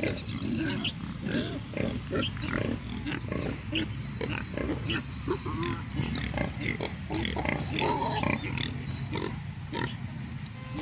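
A group of pigs grunting and squealing: many short calls overlapping throughout, over a steady low hum.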